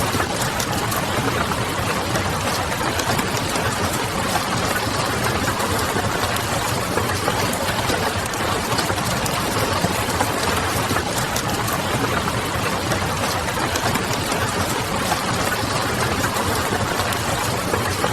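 Steady rain on a window mixed with the crackle of a wood fire, a dense, even wash with small scattered crackles.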